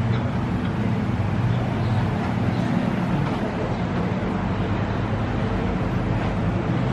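A steady low mechanical hum under a constant rushing noise.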